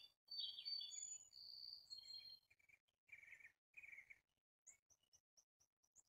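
Faint bird calls: high whistled notes and chirps in the first few seconds, then a quick run of short, very high notes, about four a second, near the end.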